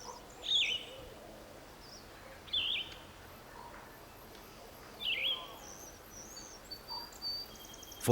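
Wild bird calls over faint outdoor background: a short whistled call, rising then falling, three times about two to two and a half seconds apart, with fainter higher chirps in between.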